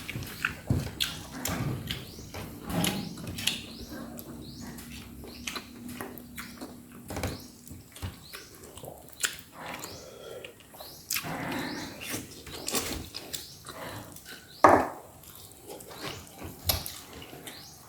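Close-up eating sounds of a person chewing roast chicken: irregular wet smacks, clicks and chewing noises, with one louder crunch or knock about three-quarters of the way through.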